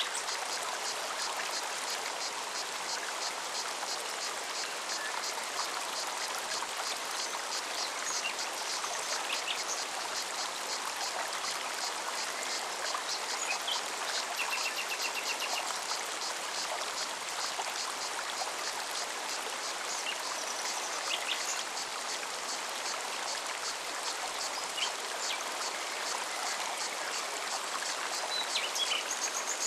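Forest stream running steadily over rocks, with a cicada's high pulsing of about three pulses a second and a few short bird chirps and a brief trill.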